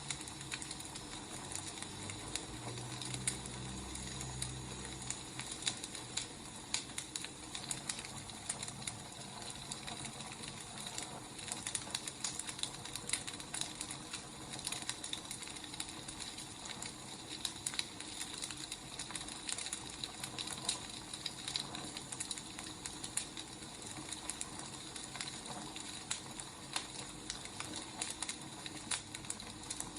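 Wood fire burning, with a steady hiss and irregular sharp crackles and pops from the logs. A brief low hum a few seconds in.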